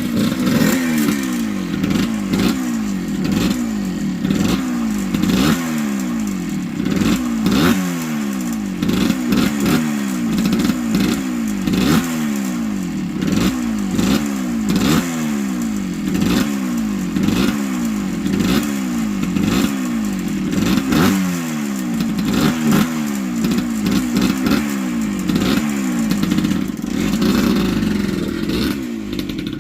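1978 Yamaha DT100's single-cylinder two-stroke engine being ridden, its pitch rising and falling over and over, about once a second, as the throttle is worked on and off.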